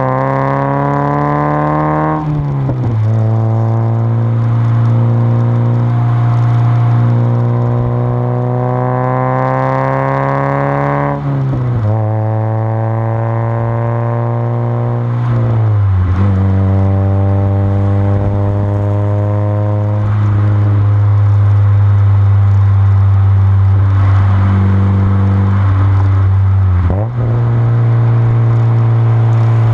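1992 Mazda Miata's 1.6-litre four-cylinder engine running through an unbaffled Goodwin Racing RoadsterSport 3 catback exhaust. The pitch creeps slowly upward under steady load. It drops sharply three times and jumps up once near the end, as the gears change.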